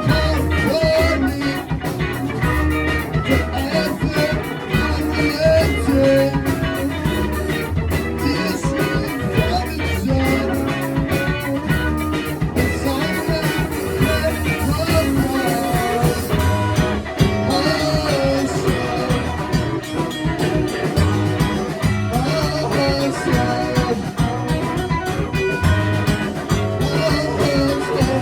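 Live rock band playing a song with electric guitar, bass and drums at full volume.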